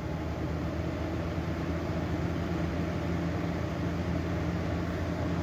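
Lenco wall exhaust fan running: a steady electric motor hum with the rush of air from the blades, still coming up to speed in the first second or so. The fan is a little out of balance, so it vibrates quite a bit.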